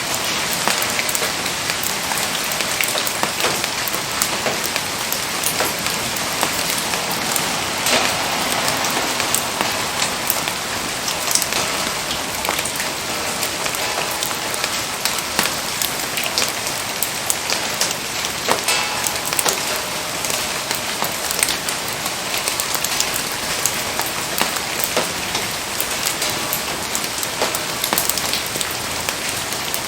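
Steady rain falling, a dense even patter of raindrops with many sharp individual drop ticks scattered through it.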